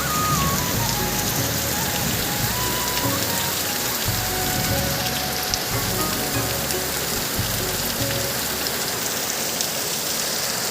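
Heavy rain pouring down steadily, a dense even hiss of rain hitting surfaces and standing water.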